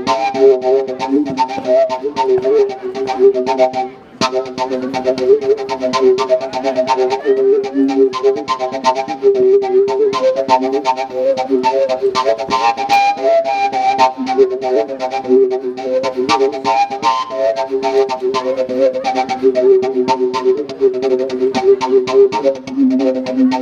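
A handmade flute played live, sustaining low tones with a melody moving above them, over a rhythmic clicking beat. It dips briefly about four seconds in.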